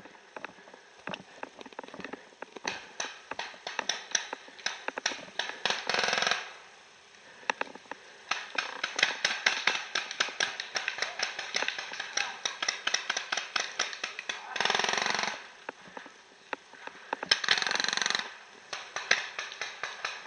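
Dense, irregular crackling and snapping of dry brush and leaf litter underfoot, with three longer rustling surges, one about six seconds in and two in the last third.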